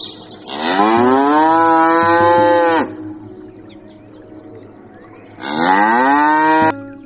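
A cow mooing twice: a long call of about two seconds that rises in pitch and then holds, and a shorter one near the end.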